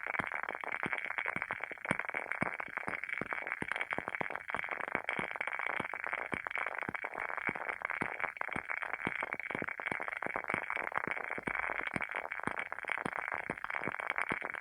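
Wooden candle wick burning with an irregular, dense crackle of small pops over a soft steady hiss, like a little fire.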